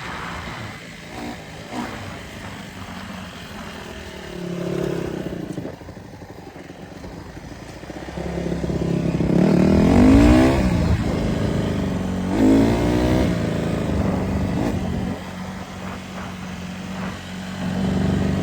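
Honda CRF150R dirt bike's four-stroke single-cylinder engine running, low at first, then revved twice, about ten and thirteen seconds in, its pitch climbing each time.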